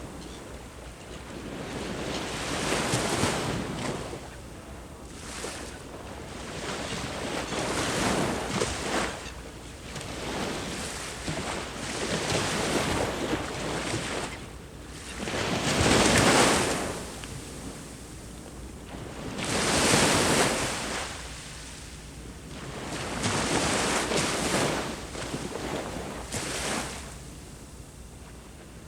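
Ocean waves breaking on the shore, the surf swelling and falling away every few seconds, with the strongest breakers about 16 and 20 seconds in. Some wind buffets the microphone.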